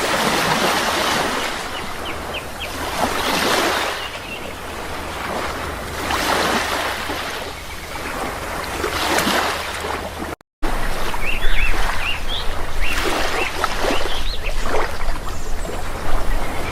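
Sea waves washing in and breaking in repeated swells every few seconds, with small birds chirping briefly, more often in the second half. The sound cuts out completely for an instant about ten seconds in.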